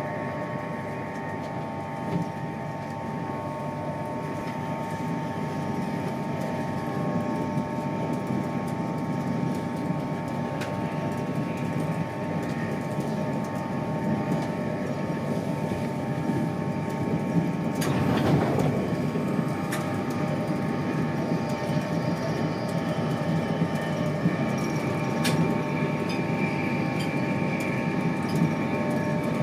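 InterCity 225 train running at speed, heard from inside a Mark 4 passenger coach: a steady rumble of wheels on rail with a constant whine over it. A brief louder rush comes a little past halfway.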